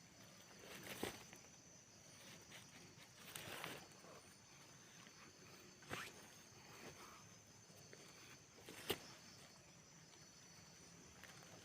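Near silence with a faint steady high tone, broken by a few brief, faint rustles and a sharp click about nine seconds in.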